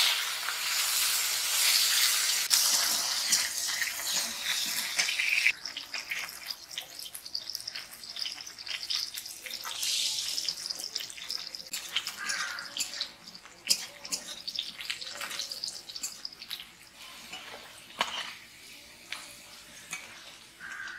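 Sliced bitter gourd frying in a wok of hot oil, a loud hiss and crackle just after the pieces go in. About five seconds in it drops abruptly to a quieter, uneven frying crackle, with a few sharp clicks later on.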